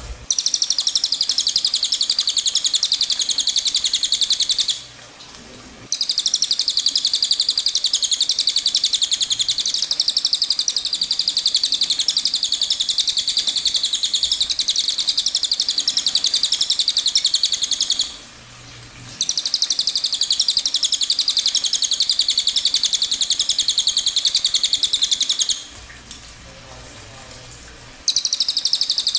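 Recorded songbird song: long bouts of rapid, high-pitched trilling notes, broken by short pauses about five, eighteen and twenty-six seconds in.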